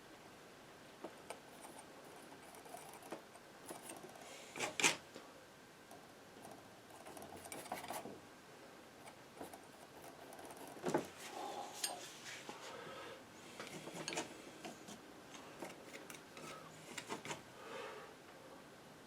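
Painting knife scraping and tapping as paint is worked onto the painting: irregular short scrapes and light clicks, the loudest at about five and eleven seconds in.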